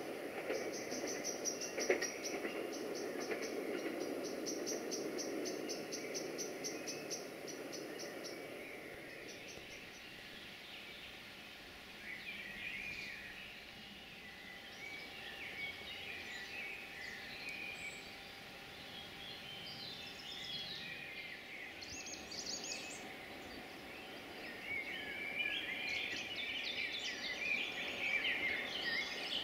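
A diesel multiple unit's running noise fading away along the track for the first several seconds, with a fast, even high-pitched pulsing over it. Then songbirds calling and singing in the woods, busiest near the end.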